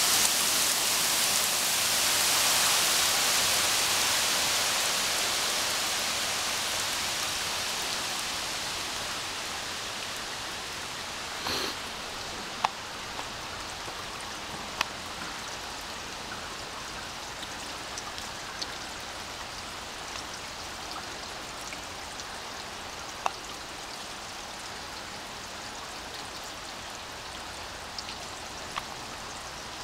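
Heavy rain falling on wet asphalt and puddles, a steady hiss that grows quieter over the first ten seconds or so and then holds steady, with scattered sharp ticks of individual drops striking close by.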